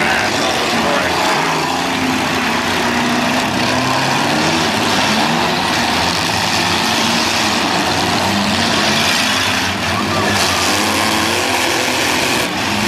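Several demolition derby cars' engines running and revving at once, their pitches rising and falling over one another, over a steady loud wash of noise.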